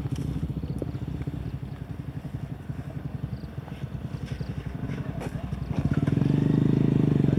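Small motorbike engine running as the bike rides across a narrow bridge toward the listener, with a fast steady pulse that grows clearly louder about six seconds in as it comes close.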